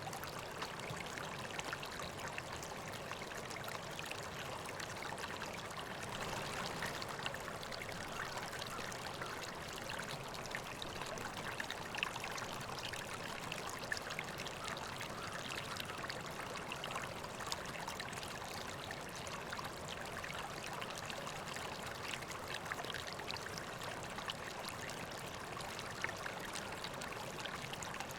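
River water flowing steadily, with small sharp splashes and drips now and then through the even rush.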